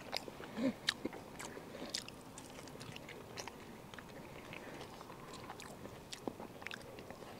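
A person chewing a mouthful of cooked gar, heard close up: soft wet mouth noises and scattered small clicks, with a brief hum about half a second in.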